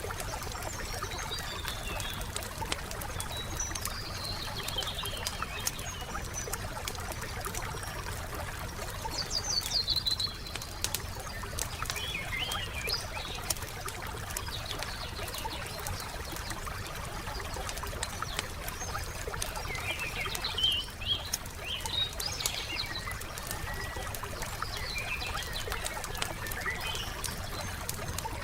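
Wood fire crackling with a steady run of small pops and snaps, while songbirds chirp and sing in short phrases now and then, loudest about ten seconds in and again around twenty seconds in.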